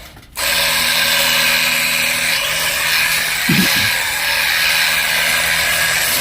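Motorized chemical sprayer's small engine running steadily, with the hiss of the spray, after a brief drop in the sound at the very start. A short call, like a goat's bleat, comes about three and a half seconds in.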